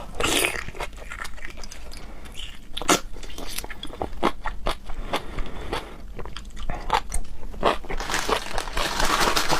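Close-miked chewing and biting of food: irregular short wet clicks and crunches, growing denser near the end.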